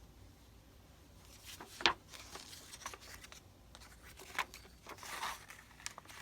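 Paper and craft materials being handled: rustling and scraping, with a sharp click about two seconds in and more rustles later.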